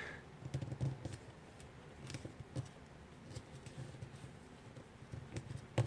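Square origami paper being folded and creased by hand: faint scattered crinkles and small taps, with a couple of sharper taps near the end.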